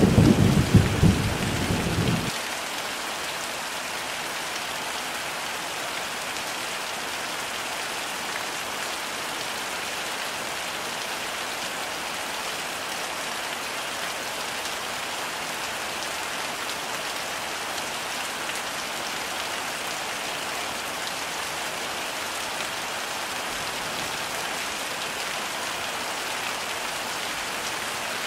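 Heavy rain falling steadily, an even hiss. A low thunder rumble runs through about the first two seconds and then cuts off suddenly, leaving only the rain.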